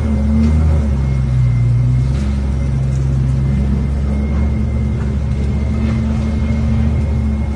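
A car engine running at a steady idle, a low, even rumble.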